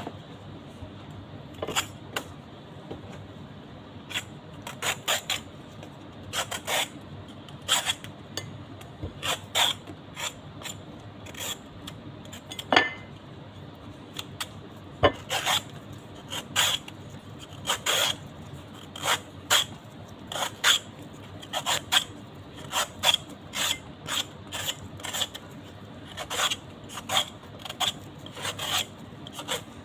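Close-miked eating of mango: many short, sharp crunches of biting and chewing, irregular, about one or two a second.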